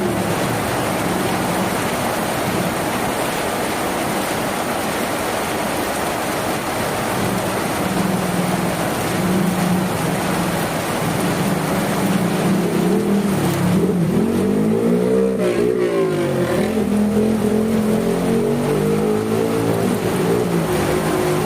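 Steady rain falling on a tin roof, with an engine hum under it. The engine's pitch wavers up and down about two-thirds of the way through.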